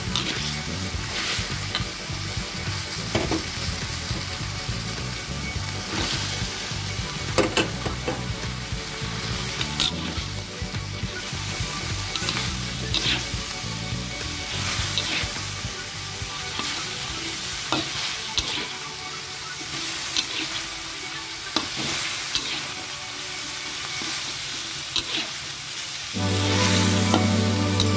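Beef and sliced bitter melon stir-frying in a metal wok: a steady sizzle, with the metal spatula scraping and knocking against the pan at irregular moments. Music comes in loudly near the end.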